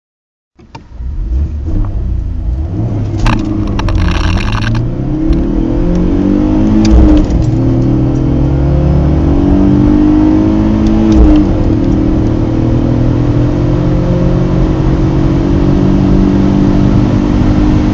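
BMW E46 3 Series four-cylinder engine accelerating hard from a standstill, heard from inside the car: its pitch rises through each gear and drops back twice at the gear changes.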